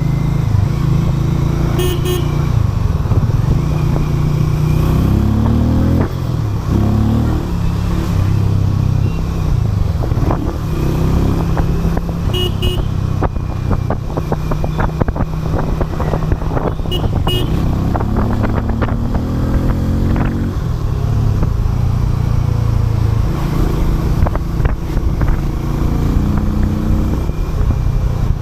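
Harley-Davidson X440's single-cylinder engine running, its pitch climbing and dropping several times as it revs and changes speed. A short high toot, like a horn, sounds three times, and there is some clicking in the middle.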